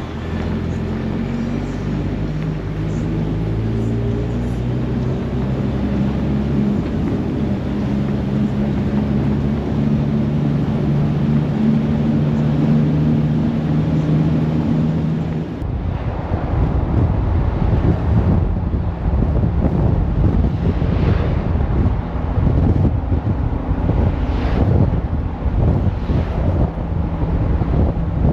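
Jeep engine running steadily while driving, its pitch drifting slowly. About halfway through the sound changes abruptly to rough wind buffeting on the microphone over the low engine rumble.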